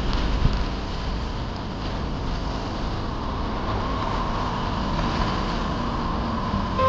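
Steady city street noise in a snowstorm: vehicle traffic running with a low rumble under a constant rush of wind.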